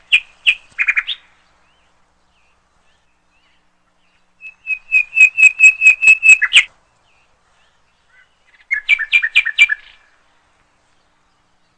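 A songbird singing in three short phrases of rapid, repeated high notes, with silent pauses between them. The middle phrase is a fast run of about a dozen notes, and the last alternates between two pitches.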